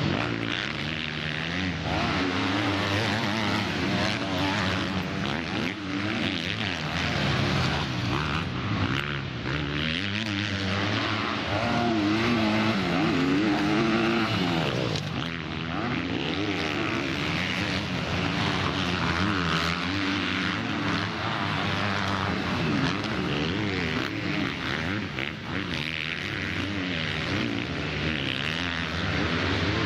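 Several motocross bikes racing, their engines revving up and down as they go round the track.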